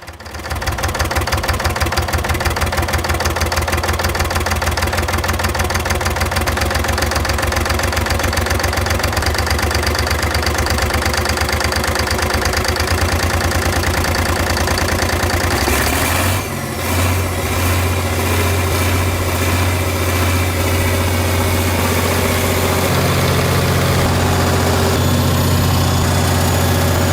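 Six-cylinder Allis-Chalmers diesel engine of a 250 kW generator set running after a cold start without preheat, with a steady, rapid firing beat. About 16 seconds in the sound dips and changes briefly, then the engine runs on steadily with a stronger low note.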